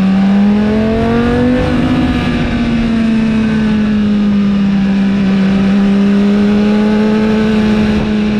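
BMW S1000RR's inline-four engine running through an Akrapovic exhaust, its note climbing for about two seconds, stepping once, then holding steady at moderate revs over a rush of wind and road noise.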